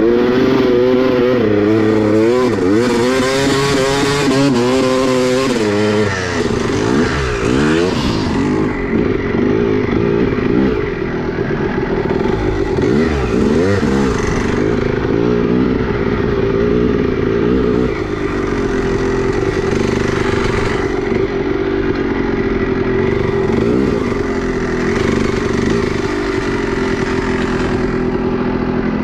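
Two-stroke motorcycle engine under way, revving up and down repeatedly for the first several seconds, then holding a steadier pitch with smaller swings in revs.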